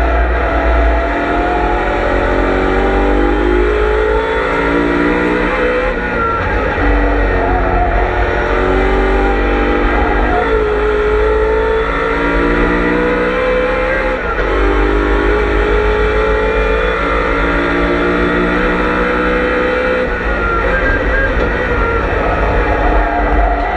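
On-board sound of a BMW M3 E92 race car's V8 engine under hard acceleration. The engine note climbs steadily and drops sharply with each upshift, about four times, with the longest pull near the middle.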